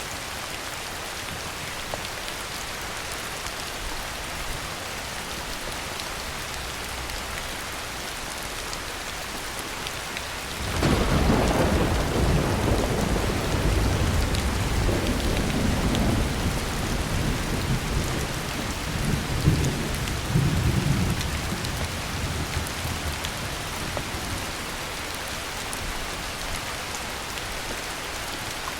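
Heavy rain falling steadily, with a long roll of thunder breaking in suddenly about eleven seconds in, rumbling in waves with a loudest crack near the twenty-second mark, then fading back under the rain.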